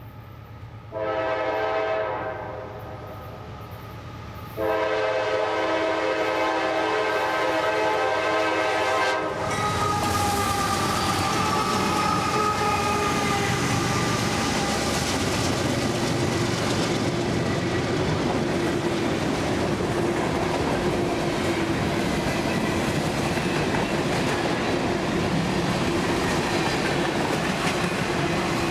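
Diesel freight locomotive's air horn sounding for a crossing, a short blast about a second in and then a long blast of about five seconds. The train then passes close by, a loud steady rumble of locomotive and freight cars on the rails.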